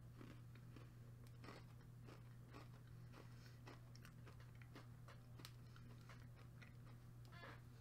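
Faint chewing of a strawberry shortcake Oreo cookie: a scatter of small soft crunches and mouth clicks over a low steady hum.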